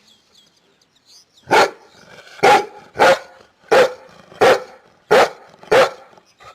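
Dog barking in a steady series: seven barks at about one every two-thirds of a second, starting about a second and a half in.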